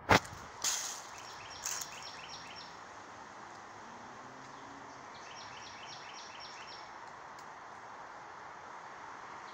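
A songbird singing twice, each time a short phrase of about six or seven quick notes, over steady wind noise. A sharp click just after the start, followed by two softer knocks, is the loudest sound.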